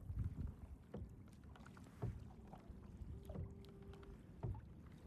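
Faint kayak paddling on the sea: paddle strokes and water lapping against the hull, with low knocks about once a second.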